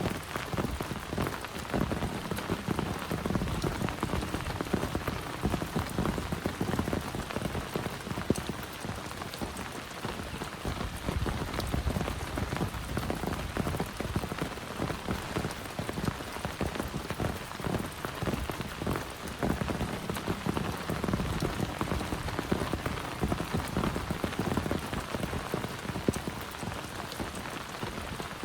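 Heavy rain falling steadily, with many close, sharp drop hits on top of the dense hiss.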